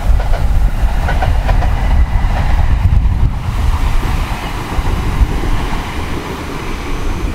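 ET127 series electric multiple-unit train running past, its wheels clicking over rail joints about a second in. Heavy wind buffeting on the microphone makes a loud rumble throughout.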